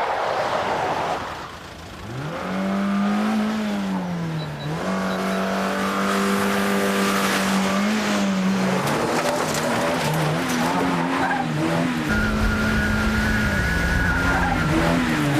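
Police car's engine revving hard as it is driven fast, its pitch climbing about two seconds in, then rising and falling through the rest, with tyres squealing.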